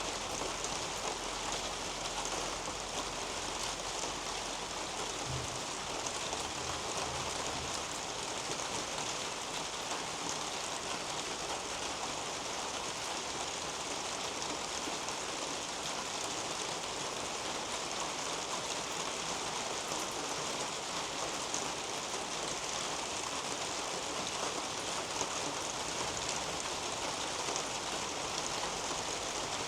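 Steady rain falling on the leaves and soil of a garden canopy: an even, unbroken patter of many drops.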